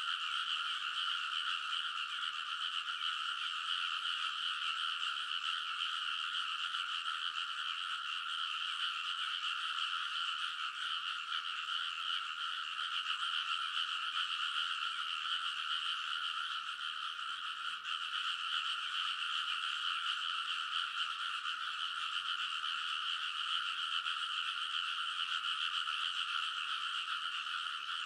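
A dense chorus of many frogs calling together from a rice paddy, an unbroken wall of overlapping croaks that holds steady at the same pitch throughout.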